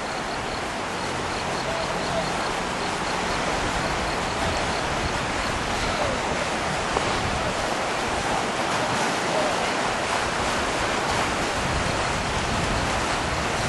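Kern River whitewater rushing steadily, a continuous even noise of the rapids.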